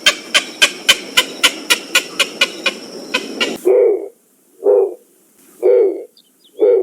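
Recorded bird call: a rapid run of sharp clicking pulses, about four a second, then, about three and a half seconds in, four short low calls about a second apart.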